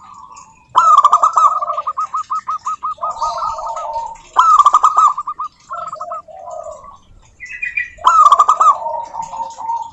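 Zebra doves (perkutut) singing: quick runs of staccato cooing notes, with loud phrases starting about a second in, near the middle and near the end, and softer phrases overlapping between them.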